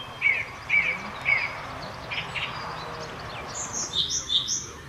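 A small songbird singing outdoors: three short, sharp chirps about half a second apart, then after a pause a quick run of higher, thinner notes near the end.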